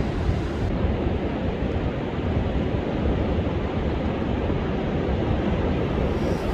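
Heavy surf from storm-driven waves breaking and washing on the beach, with strong wind buffeting the microphone; a steady, dense wash with no distinct single break.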